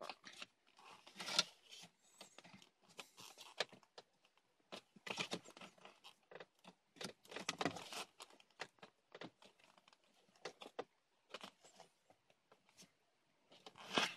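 Hands working on plastic dashboard air-duct parts: irregular rustling, scraping and small clicks of plastic and wrapping material being handled.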